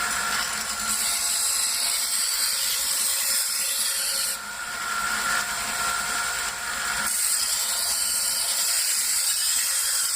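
Electric belt knife sharpener running with a coarse 120-grit belt: a steady motor whine under a grinding hiss. The hiss grows brighter twice, for about three seconds each time, as the knife edge is drawn across the belt, raising a burr on the blade.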